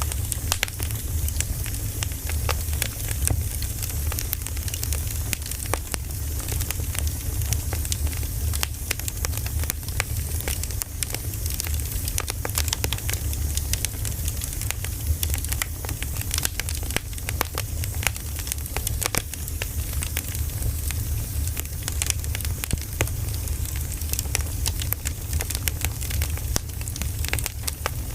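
Wood fire burning, with steady irregular crackling and popping of the burning logs over a low rumble.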